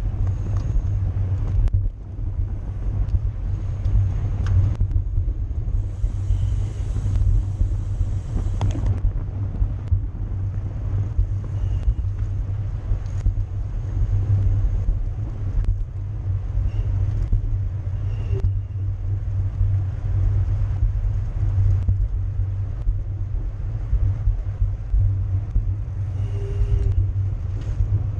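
Steady low wind rumble on the microphone with road and tyre noise from a road bicycle riding at race speed. A few seconds of brighter hiss come in about six seconds in.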